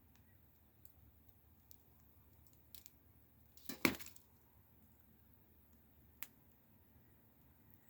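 Wood fire crackling faintly, with a few scattered sharp pops and one louder snap about four seconds in.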